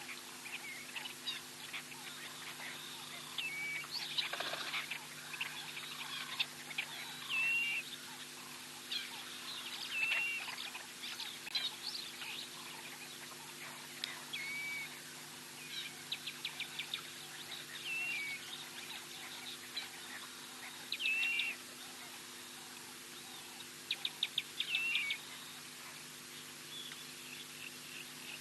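Birds calling: short whistled notes, some curling up or down, and quick rattling trills, repeating every couple of seconds, over a steady low electrical hum.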